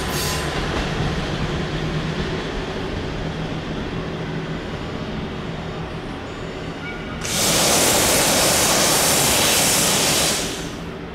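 Fading rumble of a KiHa 183 series diesel train as it draws away. About seven seconds in, a loud, even hiss starts suddenly, holds for about three seconds, then dies away.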